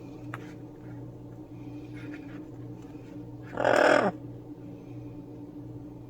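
Pet parrot giving one loud, harsh squawk about three and a half seconds in, sliding down in pitch at its end, over a steady low hum.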